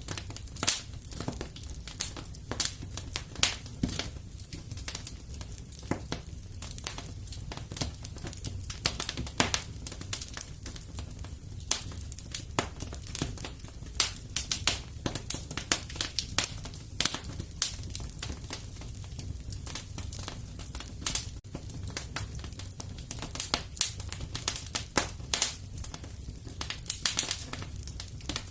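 Wood fire crackling and popping in a fireplace: irregular sharp pops and snaps over a steady low rumble of the burning fire.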